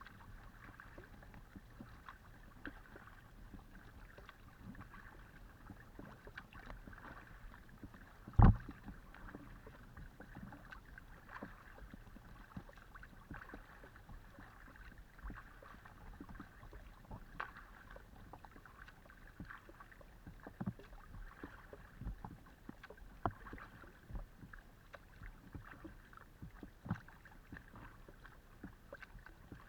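Paddling a Decathlon Itiwit X500 kayak: paddle blades dipping and splashing in the water, with many small knocks and drips picked up through the hull. One much louder knock comes about a third of the way in, and several smaller ones follow later.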